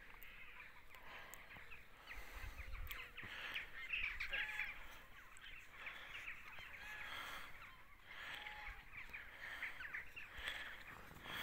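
A flock of birds calling faintly, a scattered chatter of many short calls with a few longer ones.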